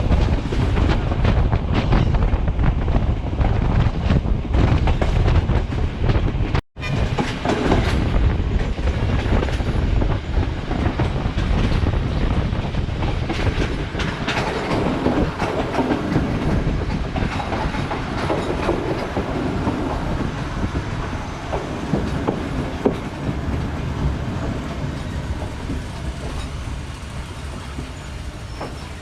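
Express passenger train running along the line, heard from on board: a steady rumble of wheels on rail. The sound cuts out for an instant about seven seconds in, then carries on with less deep rumble.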